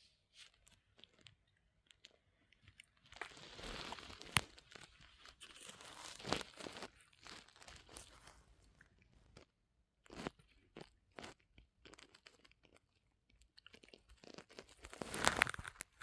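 Irregular crunching and rustling with sharp clicks, louder in stretches near the start and again near the end.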